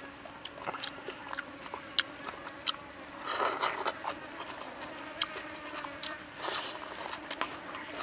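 Close-up eating sounds: a man chewing stir-fried squid, with many sharp wet clicks and lip smacks. Two louder, noisier mouthfuls come about three and a half and six and a half seconds in.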